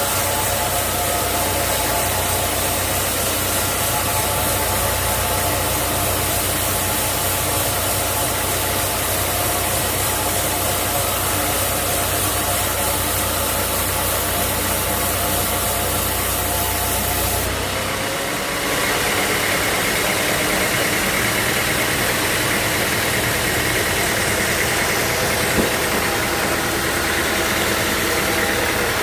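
Sawmill machinery running steadily with a deep, engine-like hum. About 18 seconds in the sound changes suddenly: the low rumble drops away and a higher whine takes over.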